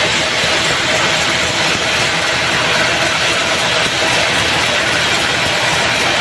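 Band sawmill running with a steady, loud mechanical noise.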